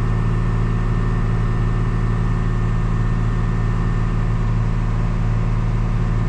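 Big John Deere farm tractor's diesel engine running steadily at a constant speed, a low, even drone.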